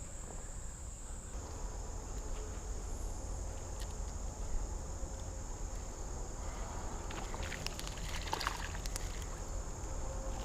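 Insects trilling steadily at a high pitch, over a low rumble. A few scattered clicks and rustles come about two-thirds of the way in.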